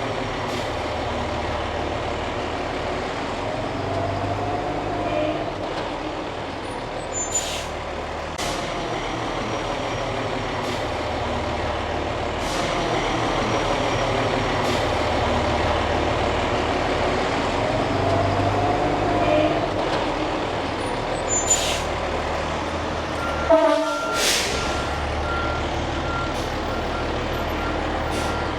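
A fire ladder truck's engine runs steadily, with a few short hisses of air. A loud air hiss comes near the end, and then a warning beeper starts beeping steadily.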